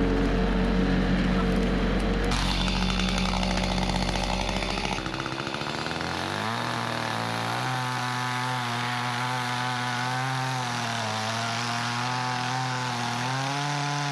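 Engine running steadily, then changing about five seconds in to a higher, slightly wavering note that holds to a sudden cut-off.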